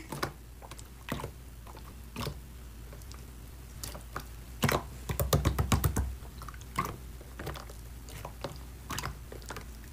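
Slime being squeezed and poked by hand, giving scattered soft sticky clicks and pops, with a quick run of crackling pops about five to six seconds in.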